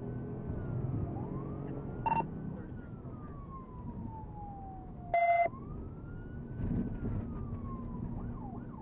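Police siren on a slow rising and falling wail, switching to a faster yelp near the end, over vehicle engine and road noise. A short loud electronic beep cuts in about five seconds in.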